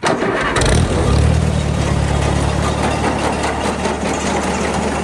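A farm tractor's engine starts abruptly and settles into a steady, loud running note.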